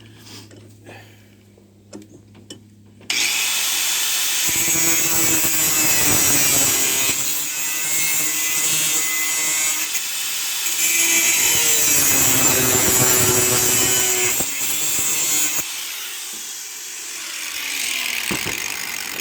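A power tool cutting through metal pipe. It cuts in suddenly about three seconds in with a loud, harsh hiss that swells and eases as the cut goes on.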